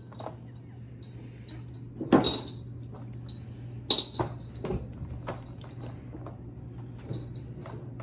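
Glass raindrop gems dropped one after another into a bowl, clinking with a bright ring; the two loudest clinks come about two and four seconds in, with lighter ticks between.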